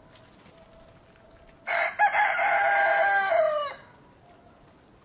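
Rooster crowing once: a cock-a-doodle-doo of about two seconds, starting with a short note and ending in a longer held note that drops in pitch at the end.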